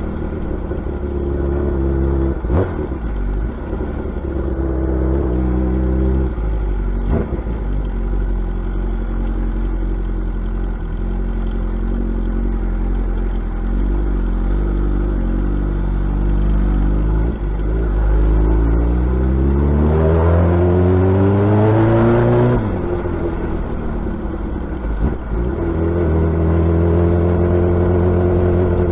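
Suzuki Hayabusa's inline-four engine and exhaust running under way at a steady cruise, then revving up in a long rising pull from about two-thirds of the way in and dropping sharply as the throttle is closed, before settling back to a steady cruise.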